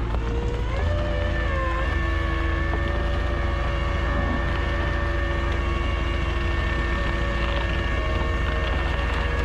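Tow truck driving at a steady speed: a low engine rumble with a steady whine over it. The pitch shifts up about a second in, then holds level.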